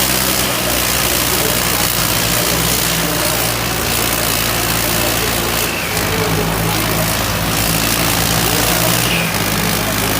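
Diesel tractor engines running steadily under load, the engine note shifting about six seconds in and again near the end.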